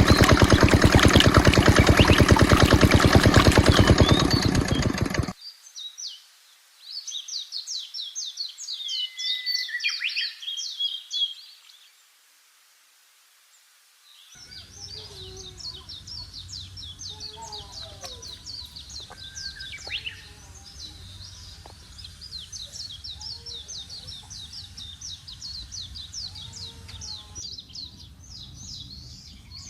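A small diesel water-pump engine running with a fast, even beat, cutting off suddenly about five seconds in. Then birds chirping in rapid high trills, pausing briefly partway through and going on steadily after.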